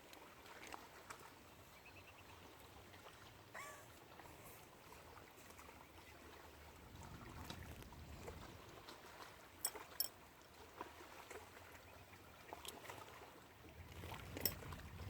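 Faint lakeshore water lapping, with scattered small splashes and clicks and a short bird call about three and a half seconds in.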